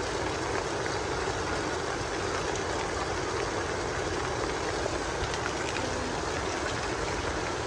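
Steady rush of water, heavy rain and running water, with an unbroken low rumble.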